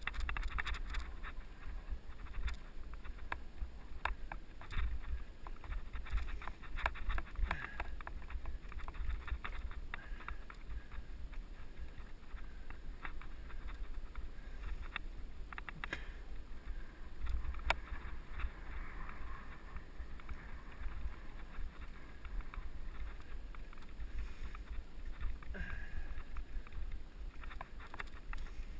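Mountain bike riding over a dirt trail: a steady low rumble of tyres and frame vibration, with frequent clicks and rattles from the bike.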